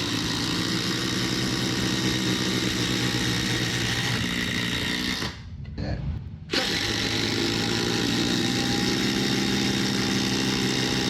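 Two cordless impact drivers hammering together as they drive long lag screws into a pressure-treated 4x4, with a steady motor whine under the rapid impacts. About halfway through, the sound drops away sharply for about a second, then the hammering starts again.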